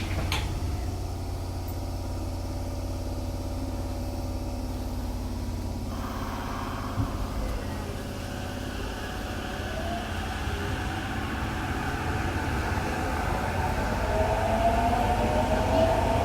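Tokyo Metro 7000 series train heard from inside a car: a steady rumble of wheels on rail. From about six seconds in, the Mitsubishi IGBT-VVVF inverter and traction motors join with a whine that rises in pitch as the train picks up speed.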